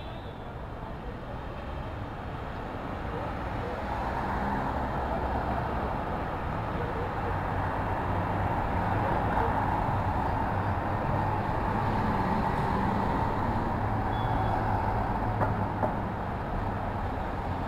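City street traffic: a steady wash of road noise with a low engine hum that grows louder from about four seconds in, as a vehicle passes close, then eases a little near the end.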